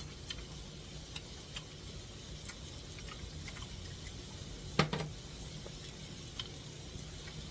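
Food sizzling faintly in a pan, with scattered light clicks of utensils and one sharper clack about five seconds in.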